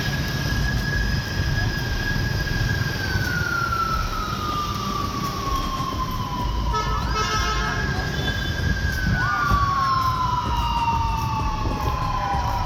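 Siren wailing over a steady rumble of street traffic. A high tone is held, then slides slowly down. Just after the middle, a second wail rises quickly and again slides slowly down, with a short burst of rapid beeping between the two wails.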